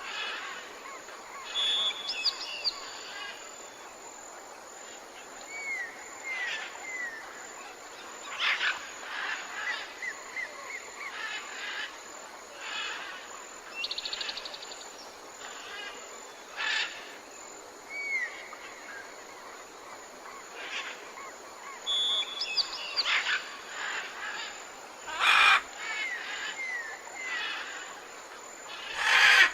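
Several wild birds chirping and calling in a mix of repeated short falling whistles, brief upward notes and a quick trill, over a steady background hiss. Two louder, sudden sounds come near the end.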